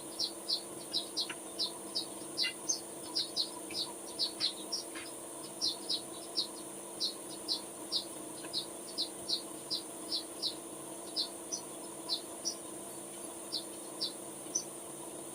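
Short, high chirps repeated unevenly about two or three times a second, like a small bird calling, over a steady low hum.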